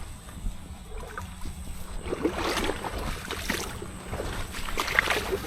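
Feet wading through shallow water: irregular sloshing and splashing that grows busier about two seconds in.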